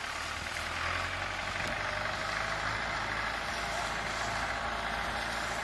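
Tractor engine running steadily on a corn harvester, a low drone under an even mechanical noise.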